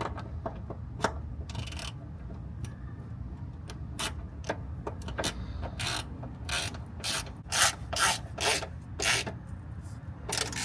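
Hand tool ratcheting on a bolt in short rasping strokes, sparse at first and then coming about two a second in the second half.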